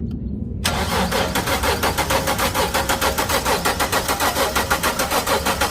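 2008 Dodge Charger's 3.5-litre V6 being cranked over by the starter motor without firing, spark plugs out for a compression test. The cranking cuts in sharply under a second in and turns over in a rapid, even pulsing rhythm.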